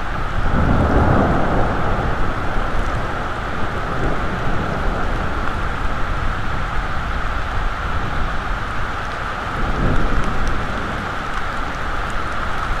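Steady heavy rain falling during a storm, with a low rumble swelling up about a second in and another near ten seconds.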